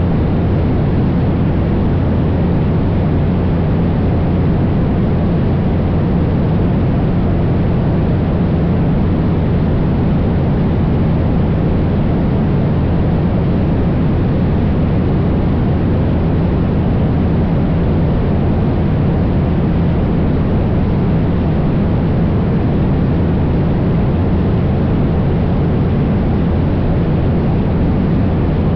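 Cessna 172's piston engine and propeller droning steadily in flight, with a low, even hum and a rushing hiss above it that stay constant throughout.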